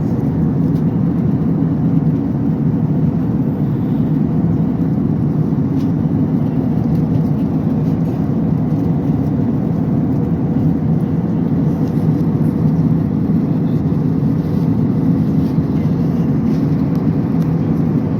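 Steady cabin noise of an airliner in flight: an even, low rush of engines and airflow with no change in level.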